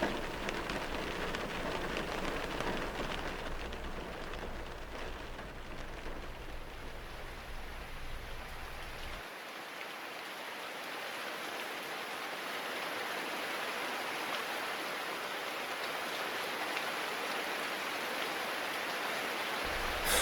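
Heavy rain falling steadily. A low rumble under the rain drops away about halfway through.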